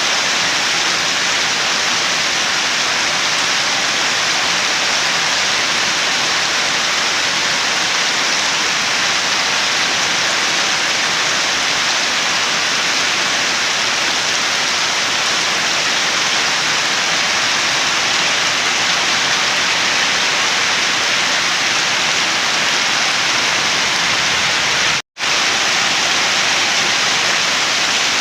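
Steady rain, an even hiss of many drops with no separate strikes standing out. It cuts out to silence for an instant about 25 seconds in, then carries on unchanged.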